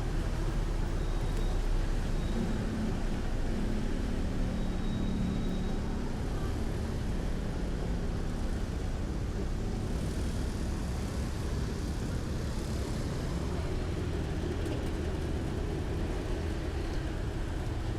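City street traffic: steady road noise and vehicle engines, with one engine humming more clearly for a few seconds in the first third.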